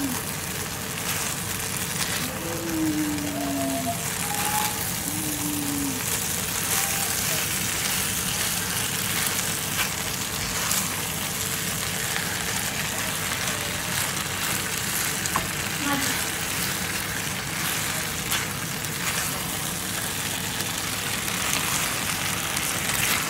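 Vegetables and tofu sizzling steadily in a hot pan as a stir-fry, with a constant frying hiss and a few light clicks of the spatula against the pan.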